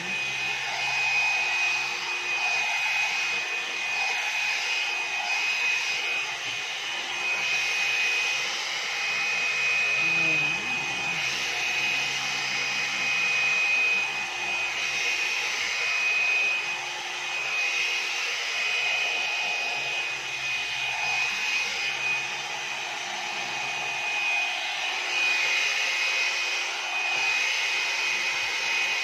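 A one-step hair dryer and styler (hot-air brush) running continuously, blowing air with a steady high whine from its motor and small swells in loudness.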